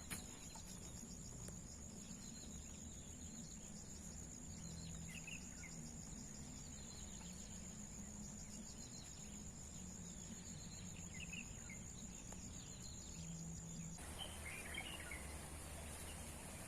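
Outdoor rural ambience: a steady high-pitched insect trill, with a few faint bird chirps now and then. The trill drops out about three seconds before the end.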